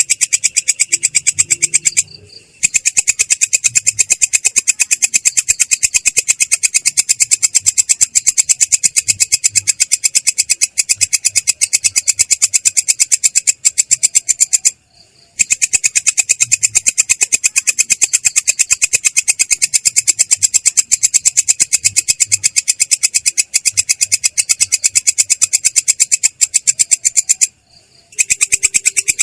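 Belalang kecek katydid stridulating in a loud, rapid, rolling trill, high-pitched and rough-edged. It breaks off briefly three times, each time starting again within about half a second.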